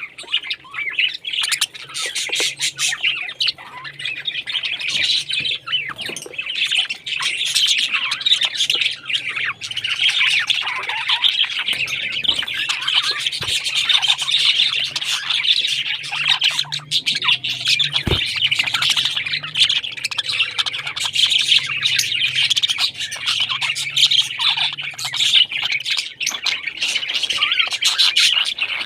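A flock of pet parrots chirping, chattering and squawking continuously, many overlapping calls at once.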